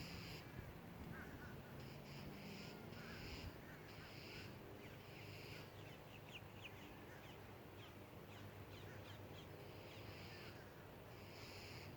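Crows cawing in a series of harsh calls, with a pause in the middle where a small bird's thin, quick chirps are heard.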